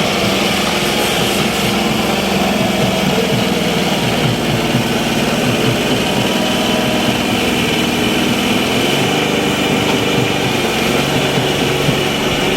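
John Deere 5210 tractor's three-cylinder diesel engine running steadily, its pitch shifting slightly about two-thirds of the way through.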